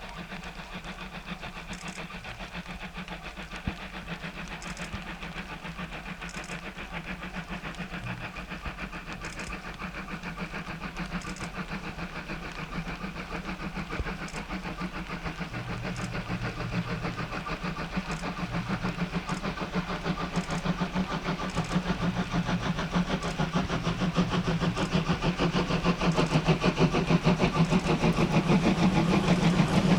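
D51 steam locomotive approaching with its train, the running sound growing steadily louder.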